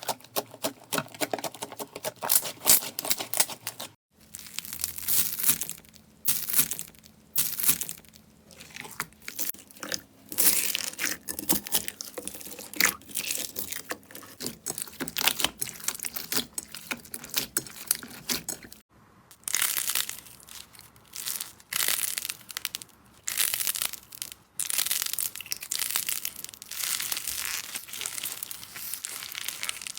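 Slime being squeezed and pulled by hand: a dense run of sticky crackling and popping. It breaks off twice, about four seconds in and again near the middle, as a new clip begins.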